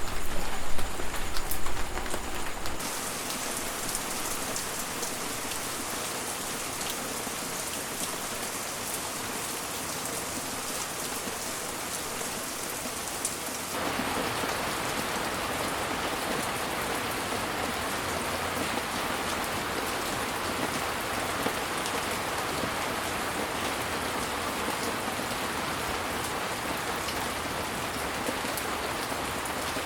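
Steady rain, an even hiss with fine drop patter. It follows a louder opening with a deep rumble that cuts off abruptly about three seconds in. About halfway through, the rain changes abruptly to a fuller, denser hiss.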